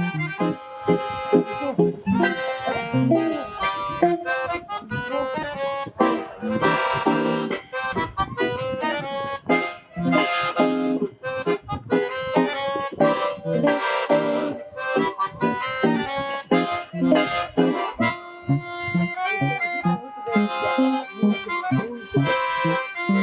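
Live instrumental duo music: an accordion plays sustained melody and chords over a guitar accompaniment.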